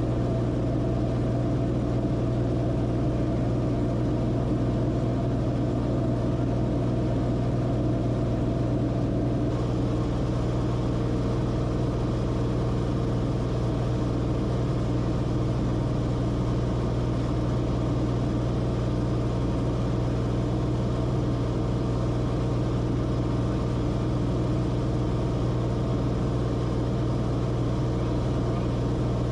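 Cessna Corvalis TTX's turbocharged Continental six-cylinder engine and propeller running steadily, a constant low drone heard from inside the cabin.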